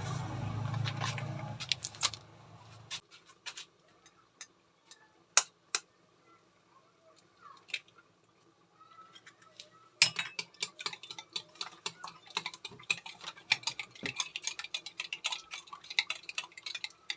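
Eggs being beaten in a bowl: a few scattered clinks at first, then quick, continuous clinking strokes from about ten seconds in. A low rumble fades out about three seconds in.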